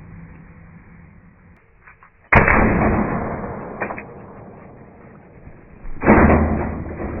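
Umarex TP50 .50-calibre air pistol firing twice, about four seconds apart, each shot a loud sharp report that dies away over a second or so, with a short knock in between.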